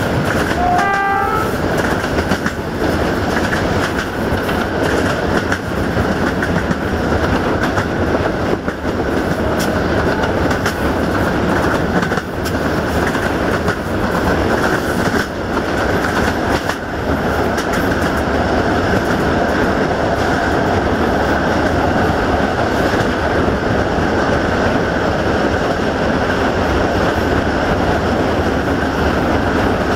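Passenger train running at speed, heard from an open coach window: the steady rumble and clatter of the coach wheels on the rails. A short rising tone sounds about a second in.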